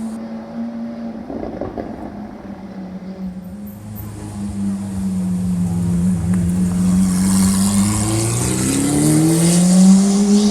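Lamborghini Aventador SV Roadster's V12 engine running at a steady low note, growing louder, then revving up in rising pitch over the last two seconds as the car accelerates.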